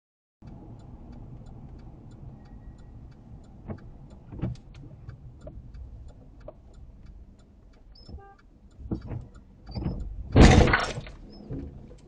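A car driving with steady road rumble and a few sharp knocks, then a loud impact about ten seconds in.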